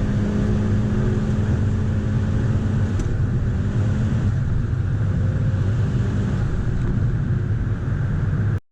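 Car engine running at a steady speed, a loud, low rumble with a steady engine tone. It cuts off abruptly near the end.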